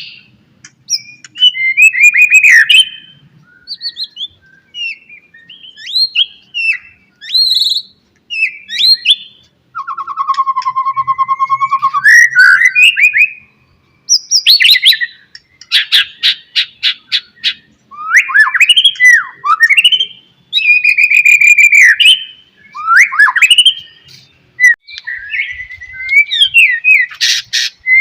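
White-rumped shama singing its full varied song: loud whistled phrases that slide up and down, a buzzy held note, and runs of rapid harsh chattering, broken by short pauses between phrases.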